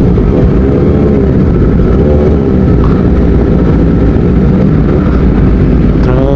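Loud motorcycle engine running, with two brief rises and falls in pitch like short throttle blips.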